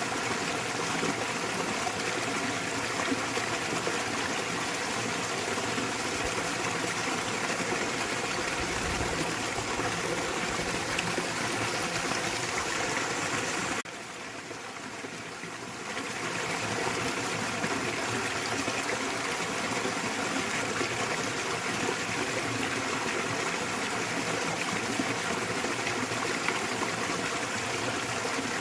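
Small waterfall in a mountain stream, water splashing and rushing steadily. About halfway through it turns briefly quieter and duller for about two seconds, then returns to the same level.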